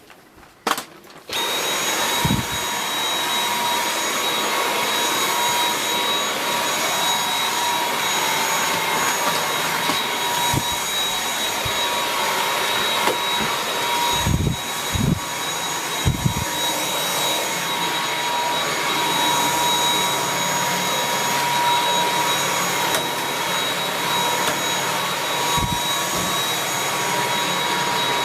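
Dyson V8 cordless stick vacuum with its soft-roller (fluffy) floor head, starting up about a second in and then running steadily with a high-pitched whine over the motor noise. A few short low thumps come in the middle.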